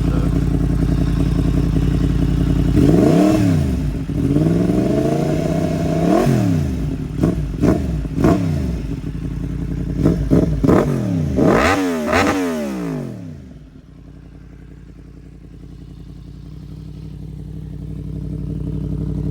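Yamaha MT-10's crossplane inline-four idling through an aftermarket Graves exhaust, then revved in a series of sharp throttle blips, each rising and falling quickly, with one held briefly and a quick cluster near the end of the revving. It then drops back to a quieter, steady idle.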